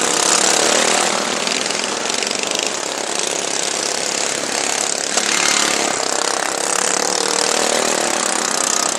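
Modified racing lawn mower engines running hard at high revs, a loud rattling racket that swells as mowers pass, once just after the start and again about five seconds in.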